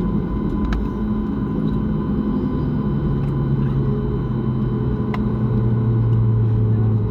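Jet airliner cabin noise on the ground after landing: steady engine and airframe rumble, with a low hum that slowly drops in pitch and a few faint clicks.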